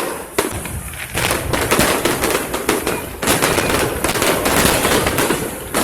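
Fireworks going off in a dense, rapid run of cracks and pops, with a brief lull just after the start and another about three seconds in.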